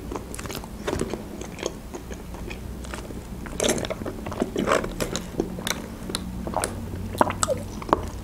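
A person chewing a hamburger, with many short wet mouth clicks and smacks. About three and a half seconds in comes a sip through a drinking straw from a cup, then the chewing goes on.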